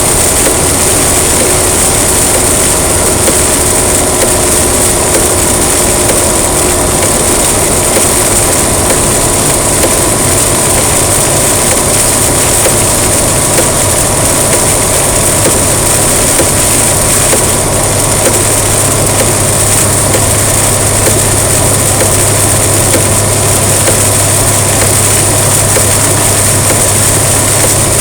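Heavy rain pouring down in a steady, loud hiss, with a low hum underneath.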